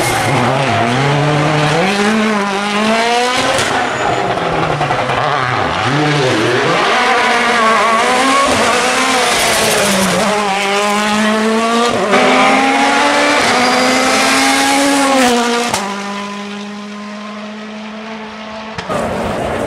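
Rally car engine at full load on a special stage, the pitch repeatedly climbing and dropping as it revs and shifts gear. It falls away and quietens after about sixteen seconds.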